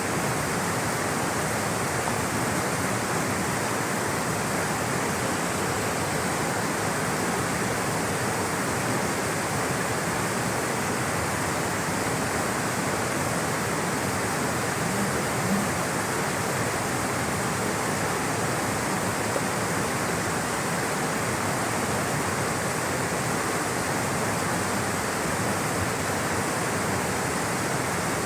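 Flowing water rushing steadily, a constant dense roar of a stream or small waterfall.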